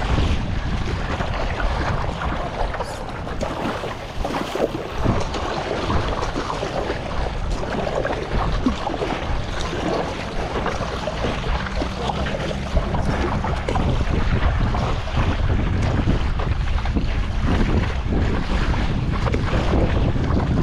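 Strong wind buffeting the microphone, with choppy water splashing and slapping around a stand-up paddleboard on the move.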